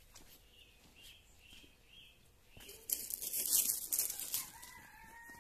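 Small birds chirping, a short arched chirp repeated a few times a second, with a loud rustling noise about three seconds in lasting over a second, and a clear whistled bird note near the end.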